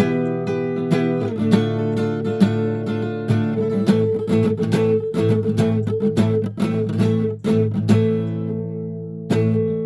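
Acoustic guitar jamming in A minor, strummed and picked chords. About eight seconds in, one chord is left ringing and fades before the strumming starts again.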